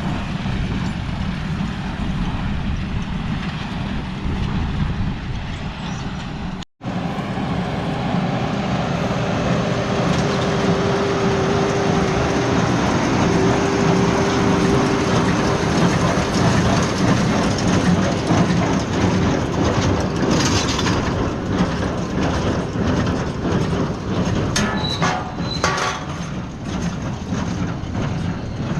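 Farm machinery running steadily, with rattling and clanking over a low engine noise. The sound breaks off abruptly about seven seconds in and resumes louder, with clanks and clicks near the end.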